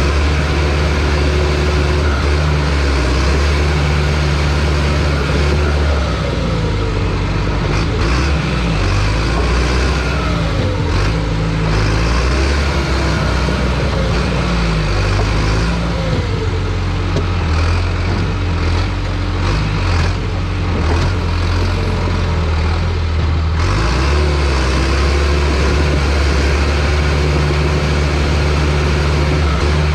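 John Deere crawler dozer's diesel engine working steadily as it pushes logs, its note shifting from about a quarter of the way in and settling back to a steady pitch a few seconds before the end.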